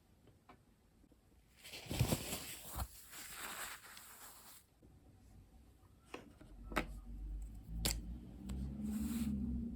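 Paper being handled and rustled for a few seconds during bullet-journal work, followed by a few sharp clicks, with a low hum coming in over the last few seconds.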